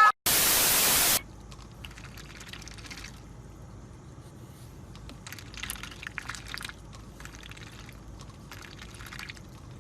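A burst of loud static hiss lasting about a second, then faint crackling and rustling noise with scattered small clicks.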